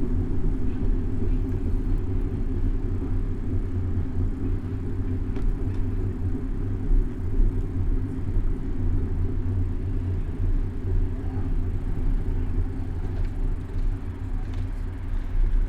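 Steady low rumble of wind and road vibration picked up by a camera mounted on a moving bicycle, with the sound of city traffic.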